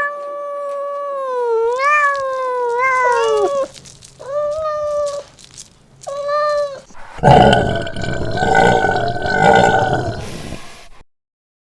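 Domestic cat meowing: a long, wavering meow that falls in pitch at the end, two short meows, then a louder, harsher drawn-out yowl that stops abruptly.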